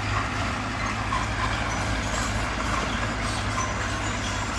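Heavy diesel engine of earthmoving machinery running steadily, with an even low drone.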